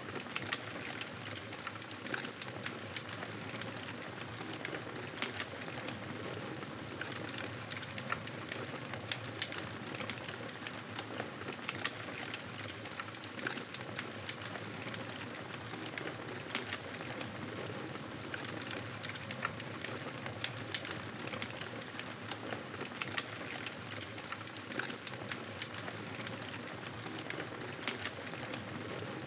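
Wood campfire crackling steadily, with a constant hiss and frequent sharp, irregular pops and snaps.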